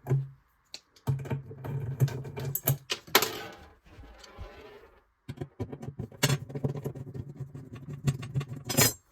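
Cordless drill-driver running in two long spells, each a few seconds, to back out the screws holding a metal drawer runner to a wardrobe side, with clicks and rattles of the screws and metal.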